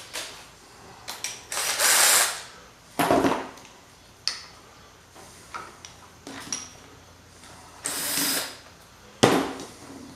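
Metal tools and parts clanking and scraping as a bearing puller and its adapter are fitted over a motor shaft: a few separate knocks and scrapes, the sharpest about nine seconds in.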